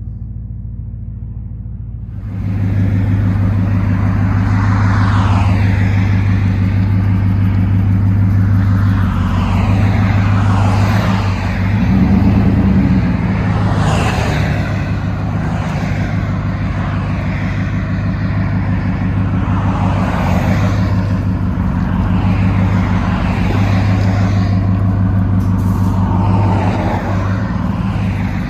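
RAM 1500's 5.7-litre Hemi V8 with an aftermarket exhaust, running steadily. It gets louder about two seconds in and rises briefly in revs partway through.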